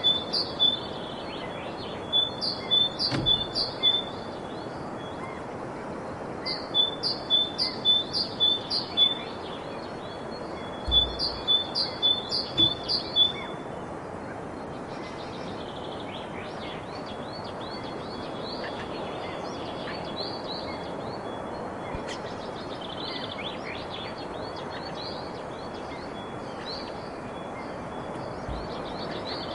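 Birdsong: quick runs of short, repeated chirps in bouts of a few seconds each, over a steady background hiss of outdoor ambience. After about 14 seconds the loud bouts stop and fainter calls carry on.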